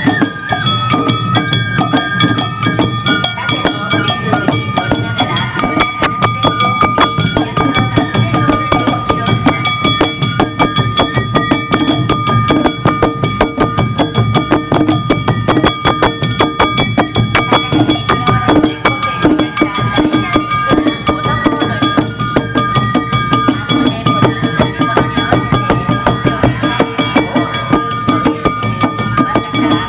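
Awa Odori festival music: a fast, steady beat of drums and sharp metallic strikes, with a melody of held high notes running over it.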